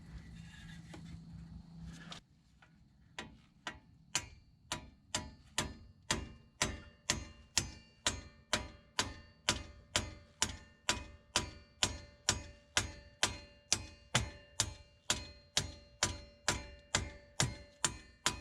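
A large hammer tapping a bearing driver plate with light, even blows, about two a second, each giving a short metallic ring, to drive a new rear wheel bearing into a Ford 8.8 axle tube. The taps begin about three seconds in and keep a steady pace.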